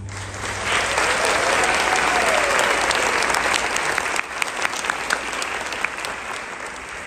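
Audience applauding at the end of a performance: the clapping swells within the first second, holds at its fullest for a couple of seconds, then thins into scattered separate claps and fades away.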